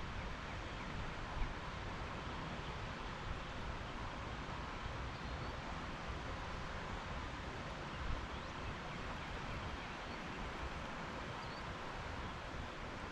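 Steady rushing of a rain-swollen creek, with wind gusting low on the microphone.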